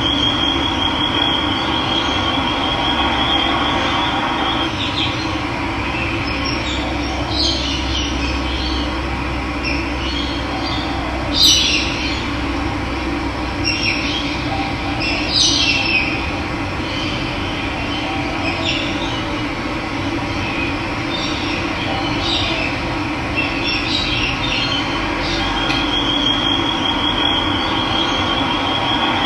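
Steady rush of running water with wild birds calling over it: a high, rapid trill near the start and again near the end, and several short chirps in between.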